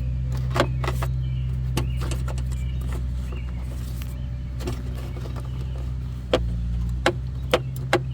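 A steady low mechanical hum with scattered sharp clicks and knocks of hand tools on metal, a few louder knocks near the end.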